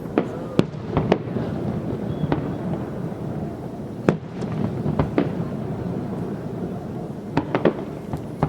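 Fireworks display: shells bursting in a series of sharp bangs, several in quick succession in the first second, single ones through the middle and a quick cluster of three near the end, over a continuous low rumble.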